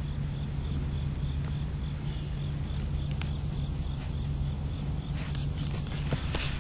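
Insects chirping in a steady rhythm, about two chirps a second, with a steady high buzz, over a low steady rumble.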